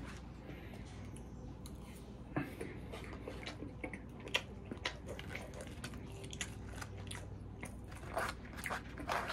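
A person biting and chewing food, with scattered short clicks and scrapes of a plastic fork picking at food in a paper food boat; the clicks come thicker and louder near the end.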